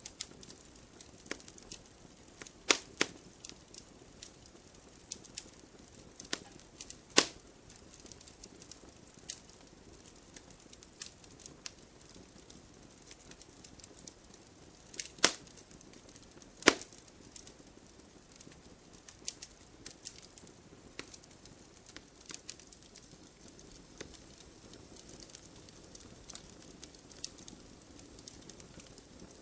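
Wood fire crackling, with irregular sharp pops over a low hiss and a few louder snaps, twice close together about 3 seconds in and again around 7, 15 and 17 seconds in.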